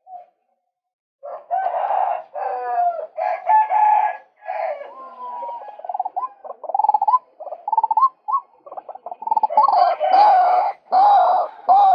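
Male white-breasted waterhen calling: a loud, harsh series of repeated call notes. It starts about a second in and keeps going with hardly a pause.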